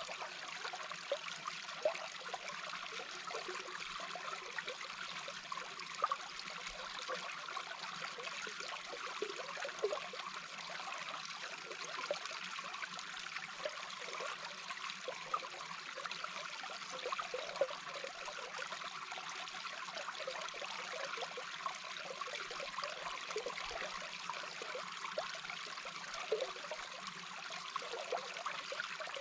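Small babbling brook heard underwater: a steady rush of flowing water with many small bubbling pops scattered through it.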